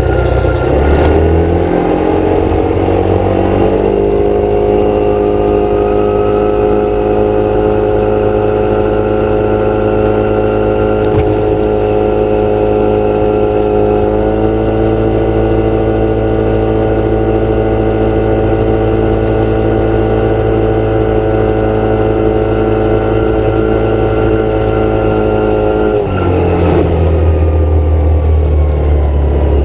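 An engine or motor running, rising in speed over the first few seconds, then holding a steady even tone before dropping back to a lower speed about 26 seconds in.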